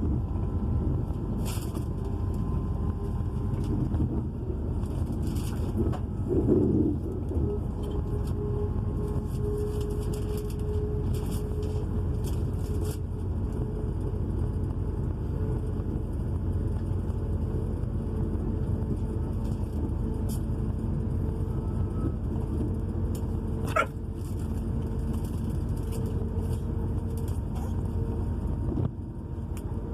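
Cabin noise inside a Class 222 Meridian diesel-electric multiple unit under way: a steady rumble of its underfloor diesel engines and wheels on the rails. A steady hum comes in about eight seconds in, with light rattles and one brief sharp squeak about 24 seconds in.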